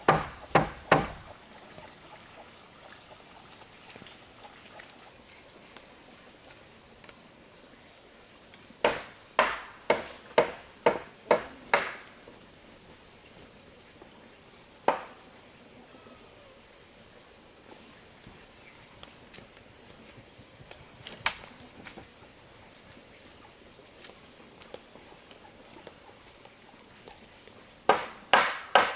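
Hammer blows on wood in short runs: a few at the start, about seven quick strikes a third of the way in, a couple of single blows later, and a fast run starting near the end. A steady high-pitched insect trill goes on underneath.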